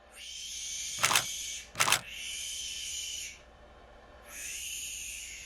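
Barn owl giving two long, harsh hissing screeches, the second starting a little past the middle. Two sharp clicks cut through the first screech.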